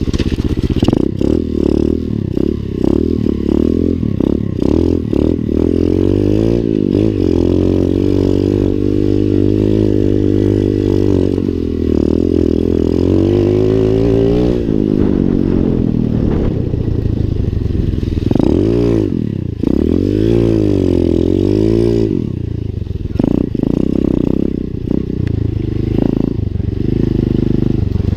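Lifan 125 cc pit bike's single-cylinder four-stroke engine being ridden, revving up and down over and over. Its pitch climbs to a peak about halfway through and drops sharply, then swings up and down again, with scattered rattles and knocks.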